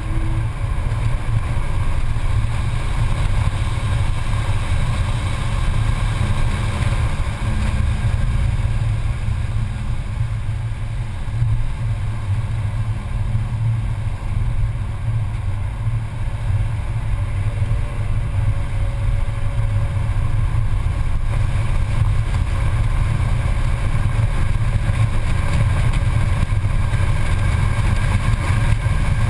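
Mercedes-Benz C280 driven hard at track speed, heard from inside the cabin: a steady, deep engine drone mixed with road noise.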